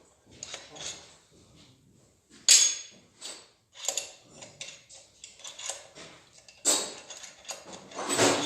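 Metal tool and bolt clatter while bolts with washers are taken out of an engine: a series of irregular sharp clinks and knocks, the loudest about two and a half seconds in and again near seven seconds.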